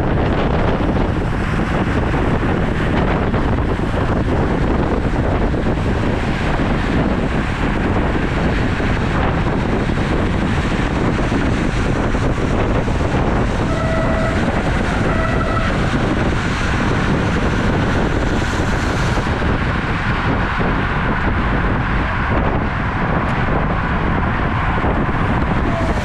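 Steady rush of wind buffeting the microphone on a moving road bike. Partway through, two short pitched beeps sound in quick succession.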